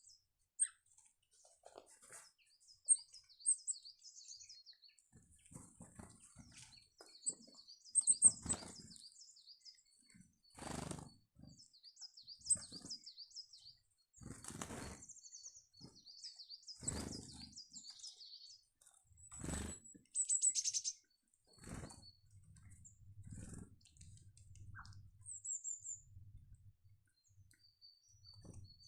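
Small garden birds chirping at a feeder in short high calls throughout, with several brief whooshes of wings as birds fly in and out.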